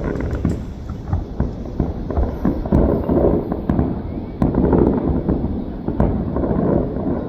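Fireworks going off in quick succession: a dense, unbroken run of booms and crackles, with a few sharper cracks standing out.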